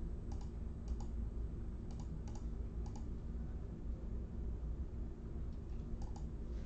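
Scattered light clicks, several in quick pairs, over a steady low hum.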